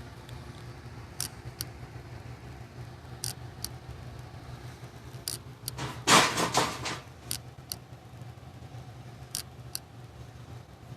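Geothermal heat pump running with a steady low hum, its blower moving hot air through the ducting. Scattered sharp clicks, and a louder rustle about six seconds in.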